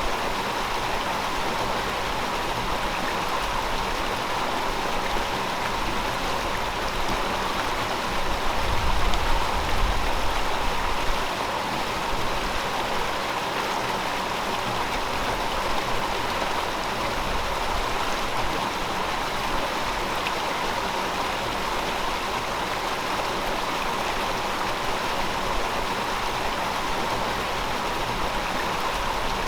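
River water flowing steadily, a constant rushing hiss. About nine seconds in it briefly swells louder with a low rumble, then settles back.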